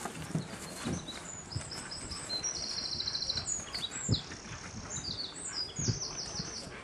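A songbird singing a quick, varied run of high warbled phrases and trills, with scattered low thumps and knocks underneath, the loudest about four seconds in.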